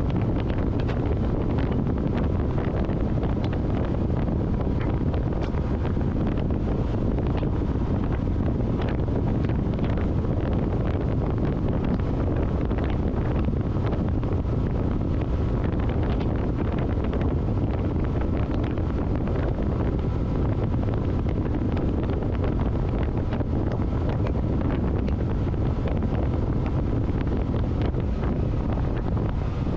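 Steady wind rushing over the microphone of a moving motorcycle, with the motorcycle's engine running underneath.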